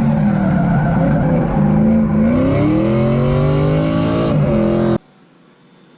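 Supercharged Ford Coyote 5.0 V8 in a BMW E46 drift car, running loud under load. Its pitch climbs steadily for about two seconds, then drops. The sound cuts off abruptly about five seconds in.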